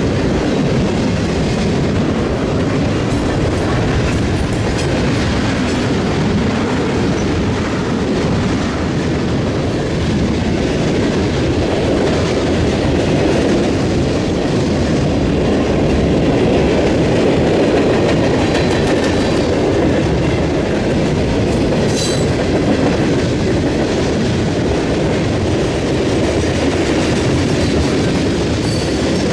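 Freight cars rolling steadily past over a railroad diamond crossing, their wheels clacking on the rail joints. A brief sharp metallic clank rings out about two-thirds of the way through.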